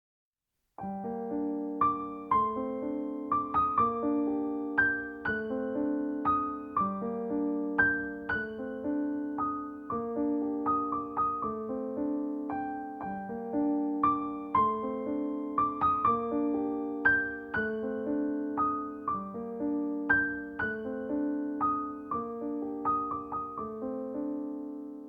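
Background music: a gentle piano melody with repeating arpeggiated chords, starting about a second in.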